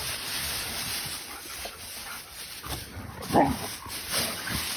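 An animal's short call, the loudest one coming about three and a half seconds in, with a few fainter calls before it.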